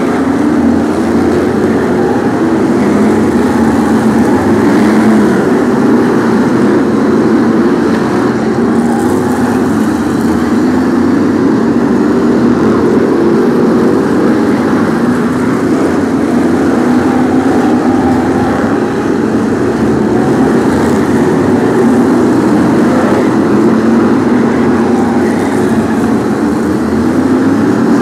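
Brisca F1 stock cars' V8 engines running loudly throughout as the field races, with engine notes rising and falling as cars pass and rev.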